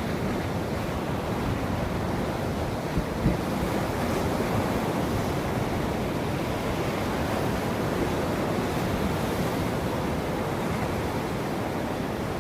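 Ocean surf washing in a steady rush, with two brief low thumps about three seconds in.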